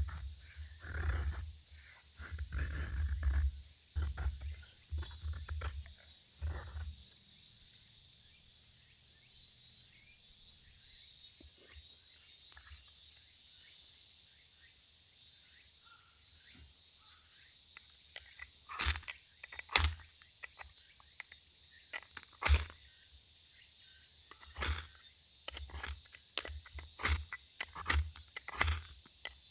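Steady high-pitched insect buzzing outdoors, with low thumps through the first few seconds and scattered sharp clicks in the second half.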